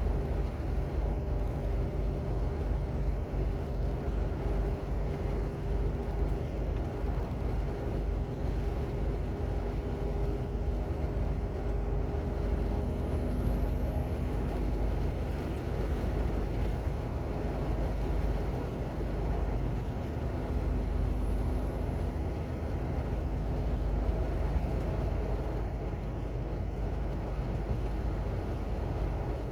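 Semi-truck's diesel engine running steadily, a continuous low rumble with faint engine tones that shift in pitch about halfway through.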